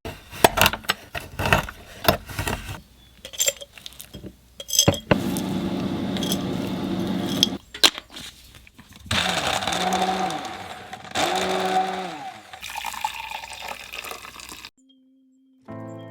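Dishes and glass clinking in a run of sharp knocks, then water running in bursts with a hum that twice rises, holds and falls. Music begins at the very end.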